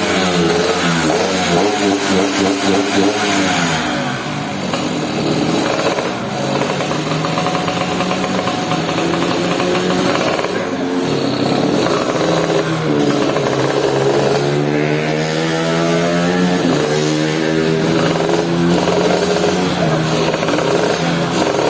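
Motocross motorcycle engines revving hard, their pitch climbing and dropping again and again as they accelerate through the gears.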